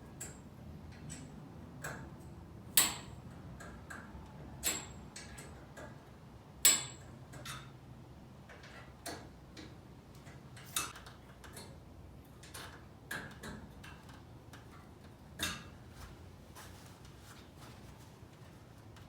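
Scattered sharp clicks and knocks of hand tools working on a garage door's torsion spring cable drum, irregularly spaced, the loudest about three and about seven seconds in.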